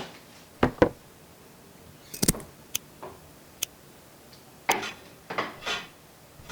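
A string of light knocks and clicks from objects being handled and set down: a close pair near the start, a cluster about two seconds in, two single clicks, then a few more knocks near the end.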